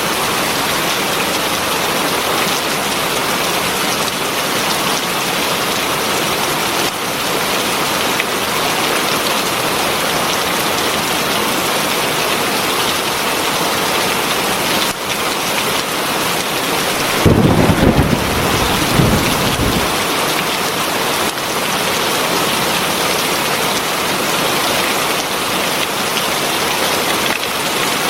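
Heavy rain falling steadily. A little past halfway through, a low rumble of thunder rolls for two to three seconds.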